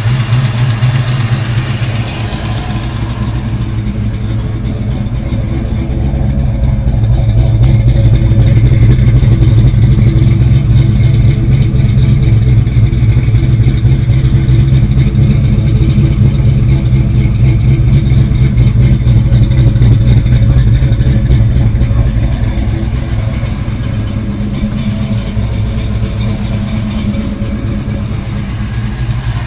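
1991 Ford Mustang GT's 5.0 litre V8 idling after a cold start through Flowmaster dual exhaust. The engine runs steadily, grows louder for a long stretch in the middle and eases back near the end.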